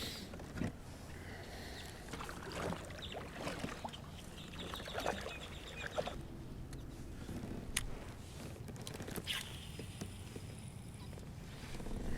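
Light knocks and small water sounds from a fishing kayak, with a steady low wind rumble on the microphone and scattered small clicks.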